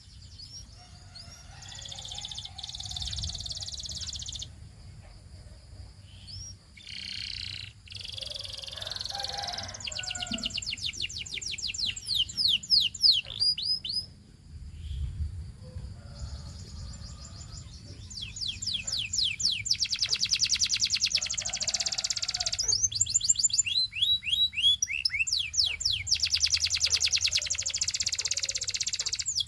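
Domestic canary singing: a song of fast rolling trills of rapidly repeated high notes, in phrases broken by short pauses, growing louder in the second half.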